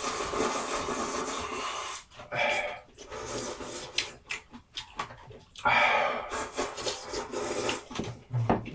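Ramyun noodles being slurped in several long, noisy draws: one over the first two seconds, a short one about two and a half seconds in and another about six seconds in, with smaller mouth and chewing noises between.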